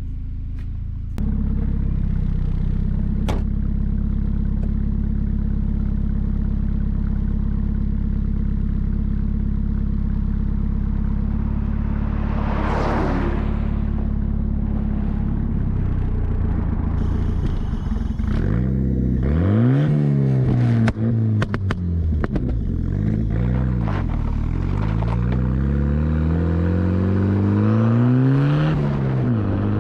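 Engine running steadily at idle, then revved repeatedly over the second half, its pitch rising and falling again and again.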